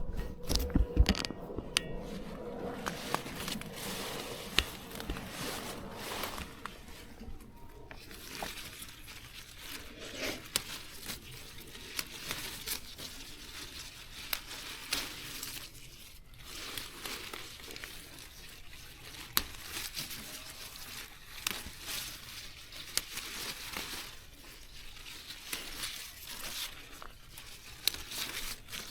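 Plants being handled: leaves and stems rustle and crinkle, with many small sharp clicks and snips at irregular intervals.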